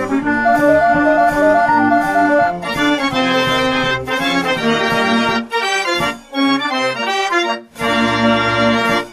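Music played on an accordion-like reed instrument: a melody over sustained chords and a bass line. It breaks off abruptly at the end.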